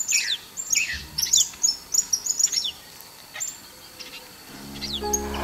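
A dawn chorus of wild birds: many short, quick chirps that fall in pitch, dense at first and thinning out after about three seconds. Soft music fades in near the end.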